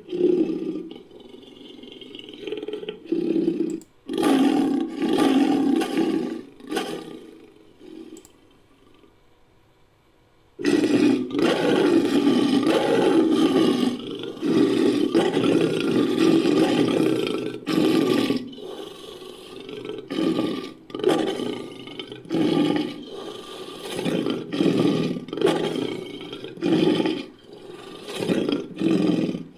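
Designed big-cat roars built from lion recordings: several roaring bursts, a quiet stretch about a third of the way in, then one long unbroken roar followed by a run of short roaring pulses.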